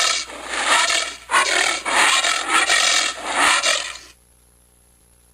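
An animal calling in a run of five or six loud, harsh bursts that stop abruptly about four seconds in.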